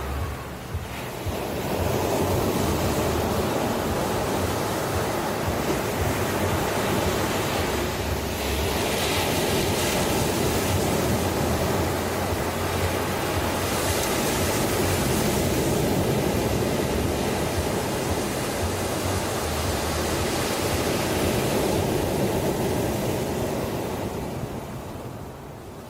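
Ocean surf washing on the shore: a long surge of rushing water that swells up about a second in, holds, and ebbs away near the end.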